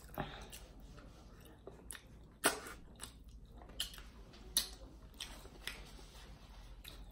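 Close-up mouth sounds of a person chewing food, with a scattering of sharp clicks and smacks, the loudest about two and a half seconds in.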